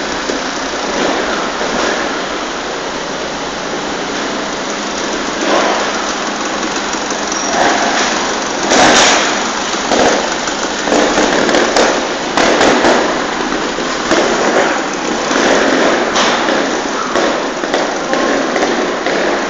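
Trials motorcycle engines running and being blipped in quick throttle bursts, sounding noisy and echoing in a large hall, with occasional sharp knocks.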